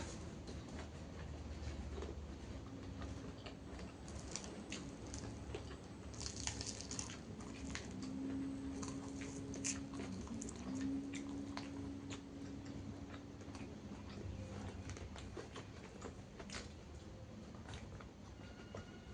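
A person eating lalapan, chewing and biting with many small wet clicks and crunches, the crisp sounds of raw vegetables and fried fish. A low steady hum joins in for several seconds in the middle.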